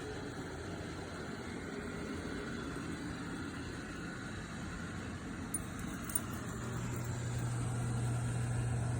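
Robot vacuum cleaner running, a steady motor and brush noise with a low hum. The hum grows louder about two-thirds of the way through, just after two light clicks.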